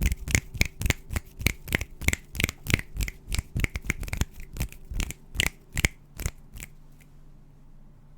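ASMR hand sounds close to the microphone: a run of quick, sharp strokes, about four a second, that stops about six and a half seconds in.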